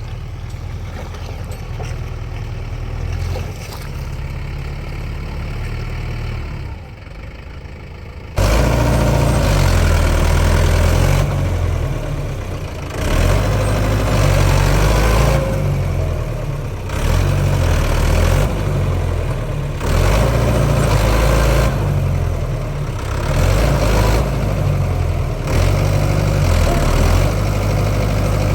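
Heavy diesel machinery engine running. About eight seconds in it abruptly becomes louder, and after that its level swells and drops every couple of seconds.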